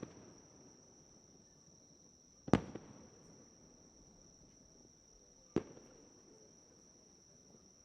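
Fireworks shells bursting: two sharp bangs about three seconds apart, the first followed by a couple of quick smaller pops. Underneath is a steady high-pitched insect trill.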